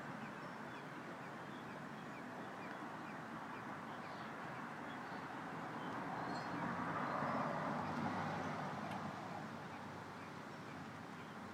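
Faint, short, high chirps of small birds over a steady rushing background noise, which swells louder for a few seconds around the middle.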